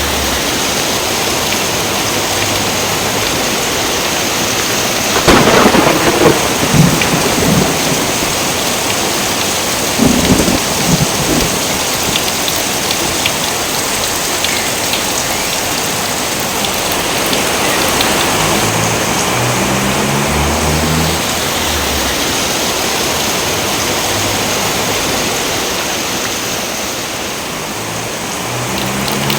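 Steady heavy rain, broken by two sharp crackling claps of thunder about five seconds in and again about ten seconds in.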